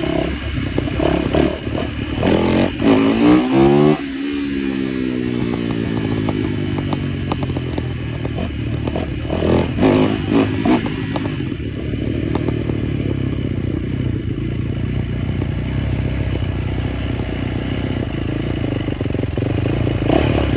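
Small motorbike engine revving up and passing close about four seconds in, its pitch dropping as it goes by, then running on steadily with a couple of quick revs around ten seconds in.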